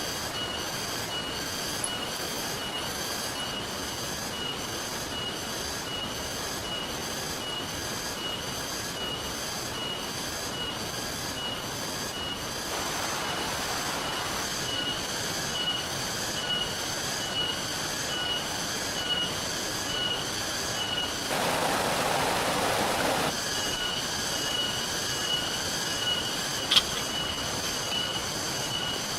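Steady rain and stream hiss, with a high-pitched chirp repeating about twice a second throughout. About three quarters of the way through, the hiss swells louder for a couple of seconds.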